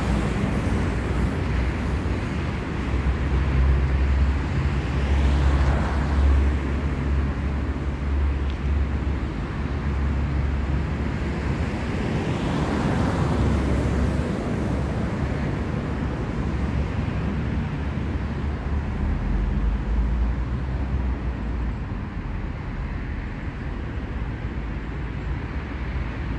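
City street traffic: a steady low rumble of engines, with vehicles passing every few seconds, their road noise swelling and fading.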